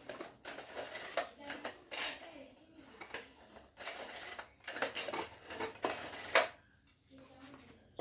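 Metal parts and hand tools clinking and clattering on a work surface during engine repair: a run of irregular sharp knocks and taps, the loudest about two seconds in and again past six seconds, then a brief lull.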